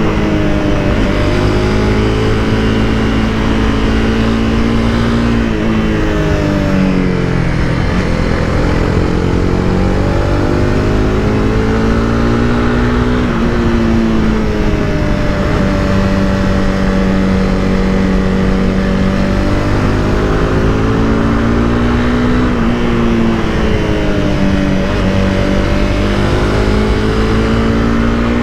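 Honda CBR300R's single-cylinder engine under way, its pitch climbing and dropping several times as the rider accelerates, shifts and eases off, with long steady stretches between. A constant rush of wind runs underneath.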